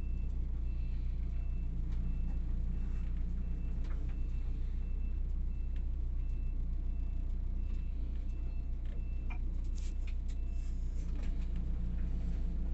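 Scania K360IB coach's rear-mounted diesel engine running steadily with a low hum. A short high electronic beep repeats about every two-thirds of a second and stops about 11 seconds in, and a few clicks come near the end.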